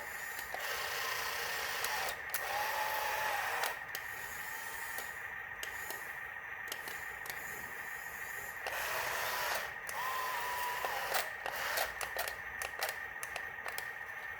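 Small electric motors of a toy RC excavator or truck whirring in two bursts, each a few seconds long, with a short whine inside each burst. Scattered clicks and a steady high-pitched whine run underneath.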